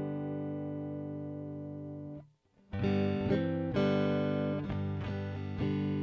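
Electric guitar played through a JHS 3 Series Flanger pedal. A chord rings and slowly fades, cuts off for a moment about two seconds in, then new chords are struck several times and left to ring.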